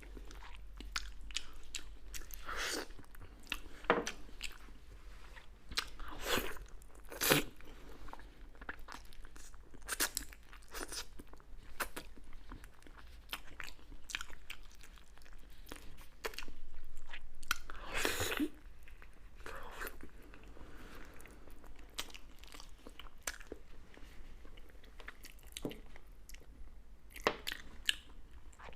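Close-up eating sounds: a person biting and chewing crunchy food, with irregular crunches and several louder bites.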